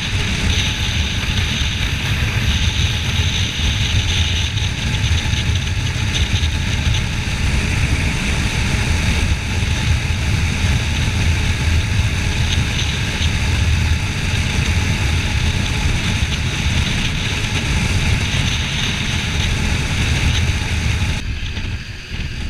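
Steady wind rush over the microphone with the rumble of a Kawasaki Ninja 400's parallel-twin engine, riding at road speed. Near the end the high part of the rush suddenly drops away.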